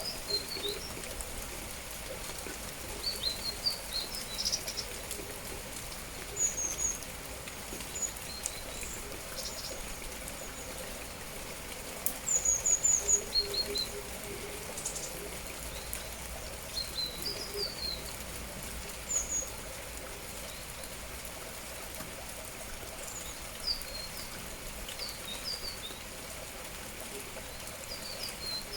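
Small songbirds chirping in short, high calls scattered throughout, loudest in a cluster about twelve seconds in, over a steady hiss of rain.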